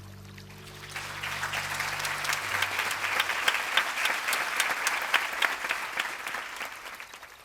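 Audience applauding: clapping swells about a second in and fades near the end, as a low sustained musical note dies away.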